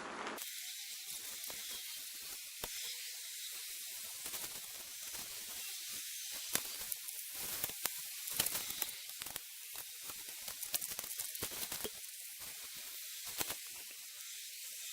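A steady, faint high-pitched hiss with scattered light clicks and taps.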